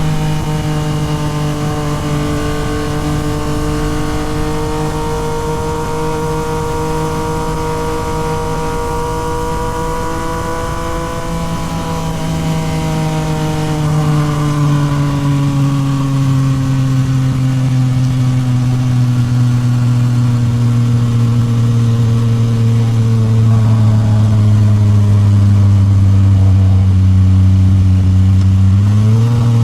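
Yamaha MT-09 SP's 890 cc inline three-cylinder engine running through a Toce full exhaust while riding. The engine note climbs slightly over the first ten seconds, slowly drops away as the bike decelerates for about fifteen seconds, then rises sharply on the throttle near the end.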